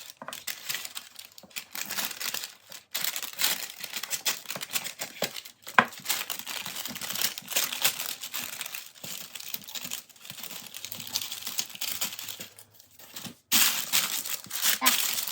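Baking paper crinkling and rustling as it is handled and pressed into a baking tray, with a sharp click about six seconds in.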